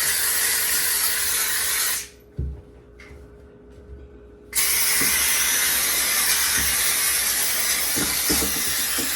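McCulloch steam cleaner jetting steam in a loud hiss, which stops about two seconds in when the trigger is let off, with a single knock in the short pause, then starts again and carries on.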